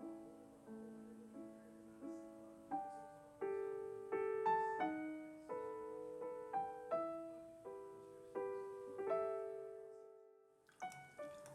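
Background music: slow, gentle solo piano, single notes and chords struck and left to ring. It fades out around ten seconds in, and a few more notes follow near the end.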